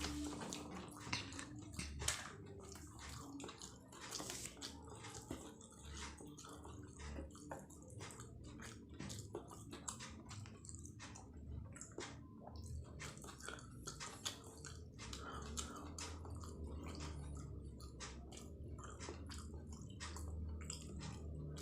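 A person chewing martabak telur close to the microphone: continuous wet chewing with many irregular mouth clicks and smacks.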